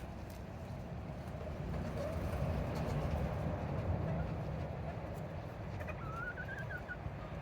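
One short warbling trill from a Serama chicken, rising slightly and lasting about a second, comes about six seconds in. Under it runs a steady low rumble with a few faint ticks.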